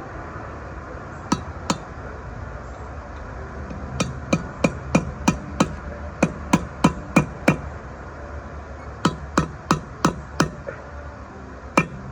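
Hammer striking a steel punch to drive a bearing race into a full-floating rear axle hub, metal on metal: two taps, then a steady run of about three taps a second, a pause, and more taps near the end.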